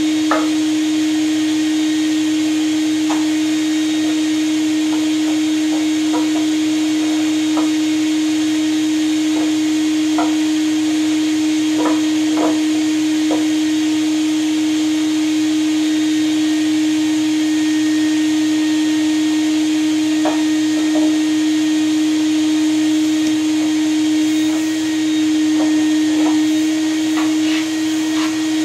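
Vacuum cleaner running steadily with a constant motor hum, sucking ash out of a wood stove, its nozzle giving light knocks and rattles now and then against the stove.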